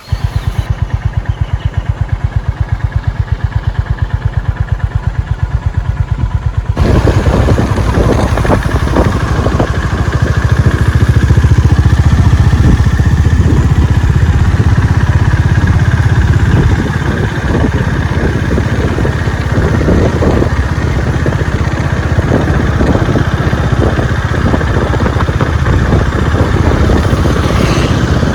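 Honda CB350 RS single-cylinder engine idling with an even, regular thump. About seven seconds in it gets louder and fuller as the motorcycle is ridden, and it runs steadily after that.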